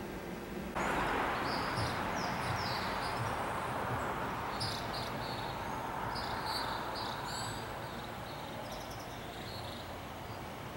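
Outdoor ambience: small birds chirping again and again over a steady background rush. It starts abruptly about a second in, replacing quiet room tone with a faint hum.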